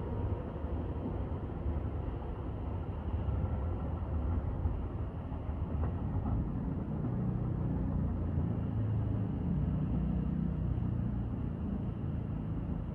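Steady low rumble of a Tobu 8000 series electric train running through the station, with no wheel clatter standing out; the rumble swells a little midway.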